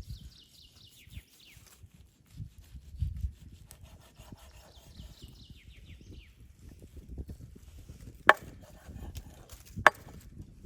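Two sharp knocks on wood, about a second and a half apart, like chopping strokes, with lighter handling and rustling between them. Birds chirp in the background in short descending runs.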